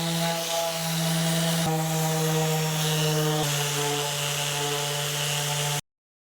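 Festool Rotex random orbital sander running steadily on wood, a motor hum with a hiss of sanding, its pitch stepping slightly twice. It cuts off suddenly near the end.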